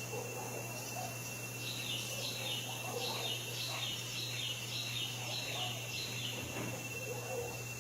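A bird calling a quick, even series of about nine or ten short descending chirps, starting a couple of seconds in and stopping about two seconds before the end, over steady background hum.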